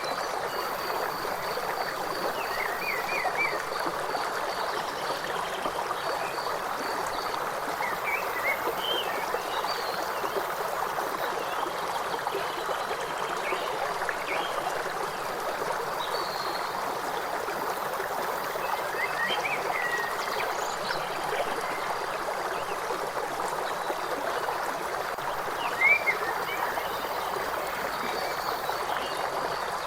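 River water flowing steadily, with short bird chirps every few seconds.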